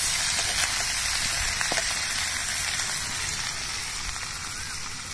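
Pork and potatoes sizzling in hot oil in an iron kadai over a wood fire: a steady frying hiss that eases slightly toward the end.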